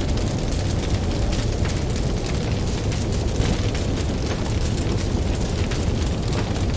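Campfire crackling with many small sharp pops, over a steady low rumble of ocean waves.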